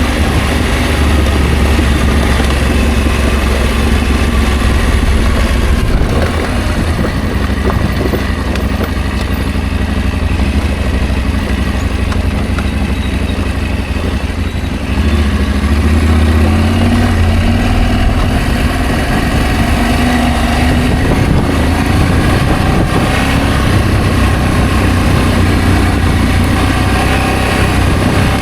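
Adventure motorcycle's engine running while riding. About halfway through it gets louder, and the engine note climbs over the next several seconds.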